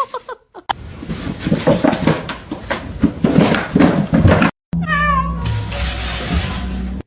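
Cats meowing across a few short clips. One call, about five seconds in, falls in pitch, over a steady hum with a high thin tone.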